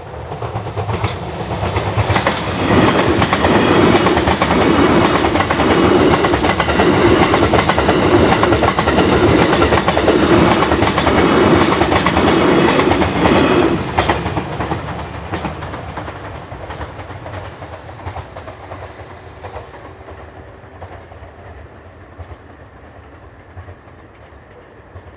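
A train passing at a level crossing, its wheels clattering over the rail joints. It is loud from about two seconds in, drops off sharply just past halfway, and then fades away.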